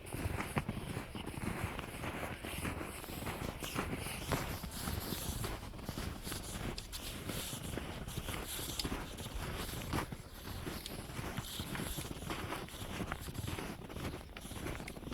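Footsteps crunching through deep, unshoveled snow, one step after another.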